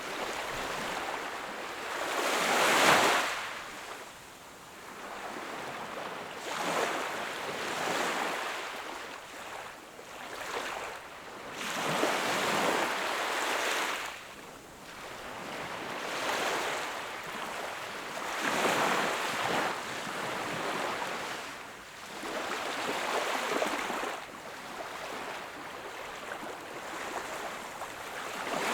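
Small sea waves washing onto the shore, a swell of rushing surf about every four seconds, the loudest about three seconds in.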